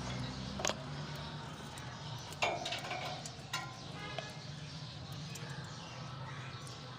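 Lovebirds giving a few short, sharp squeaky chirps, one of them sweeping down in pitch, over a steady low hum.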